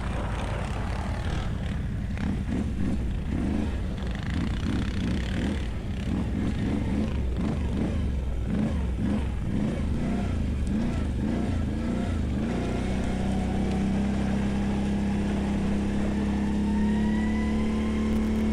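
ATV engine running under way, its pitch rising and falling as the throttle is worked, then settling to a steady drone about two-thirds of the way through.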